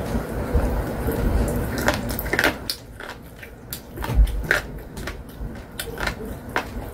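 Fried chicken being bitten and chewed close to the microphone, with short crisp crunches at irregular intervals.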